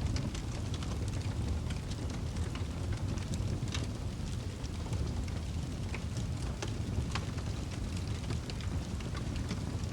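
Wood fire burning in a fireplace: a steady low rumble of the flames with scattered, irregular crackles and pops.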